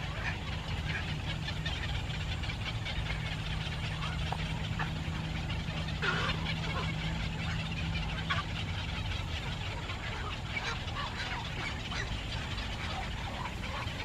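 Short, scattered bird chirps over a steady low rumble, with a low hum through the middle.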